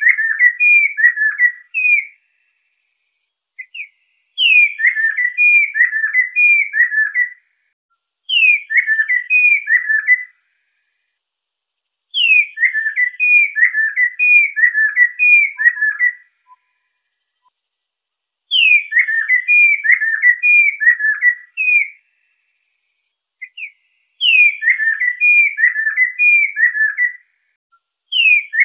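A poksai lesser, a laughingthrush, singing in loud whistled phrases. Each phrase opens with a high down-slurred note and runs into a quick string of looping whistles, and the phrases repeat about every four to six seconds with short silences between. This is the kind of recorded song that is played to caged birds as a master or lure.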